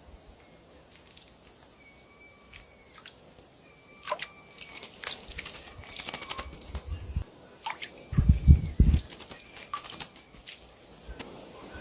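Aviary birds calling and moving: scattered clicks and short whistled call notes, with wings fluttering. A loud, low fluttering burst comes about eight seconds in.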